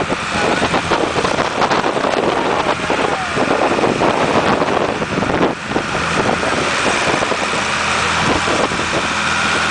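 Steady engine drone and rumble heard from inside a moving vehicle, with a constant wash of road noise and scattered rattles and knocks.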